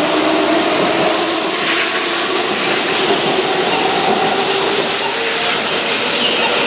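Keihan electric commuter train running past a platform at speed: a steady rush of wheels on rail and moving air, with faint shifting tones underneath, until the last car goes by near the end.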